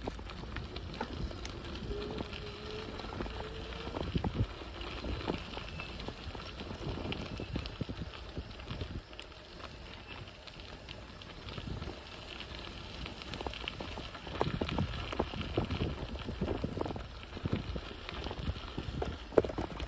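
E-bike rolling over a rough, bumpy dirt trail: irregular knocks and rattles from the bike with each bump, over a steady low rumble of the tyres.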